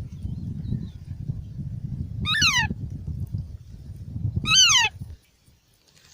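Parrot chick calling twice, each call a short squawk that falls in pitch, over a low rumbling noise that stops about five seconds in.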